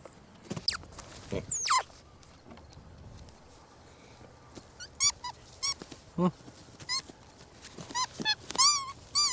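Capuchin monkey giving short, high-pitched squeaky chirps, one after another, with a quick falling squeal before them.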